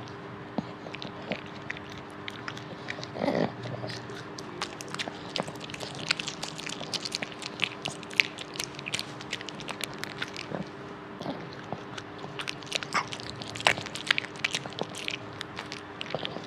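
A dog chewing and eating, with irregular crunches and clicks of its teeth and mouth throughout.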